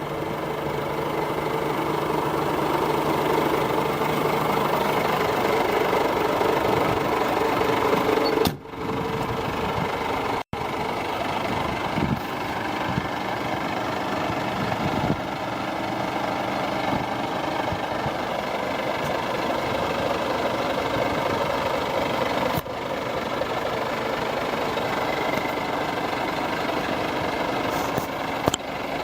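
Diesel engine of a Scania 124-400 truck, a 12-litre straight-six, idling steadily. The sound cuts out briefly twice about a third of the way in.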